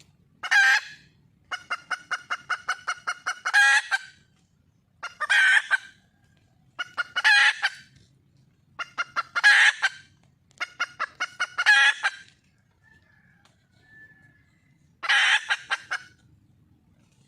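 Junglefowl hen calling for a mate: about seven cackling bouts, each a run of quick clucks rising into a louder drawn-out note, with a longer pause near the middle.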